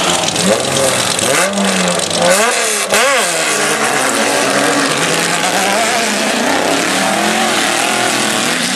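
Off-road race truck engines running hard, their pitch rising and falling sharply as the throttle is worked about two to three seconds in, then wavering under a steady din.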